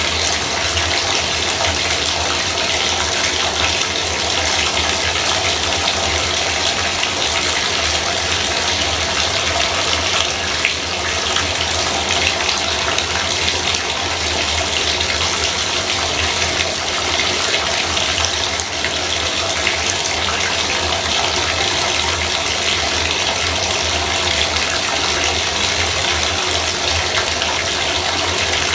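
Bathtub faucet running, a steady even rush of water pouring into the tub.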